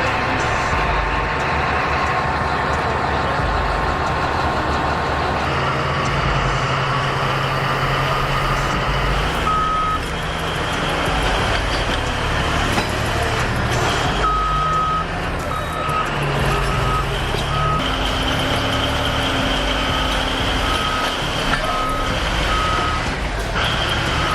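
Heavy equipment engines running steadily, with a vehicle's reversing alarm sounding a string of short beeps at an even pace through much of the second half.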